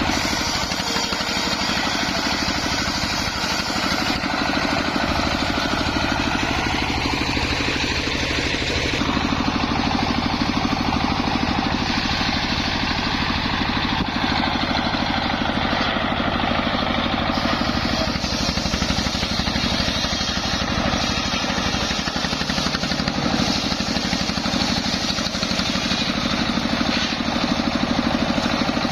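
Homemade engine-driven circular sawmill running steadily, its engine beating fast and even while the saw works through waru timber.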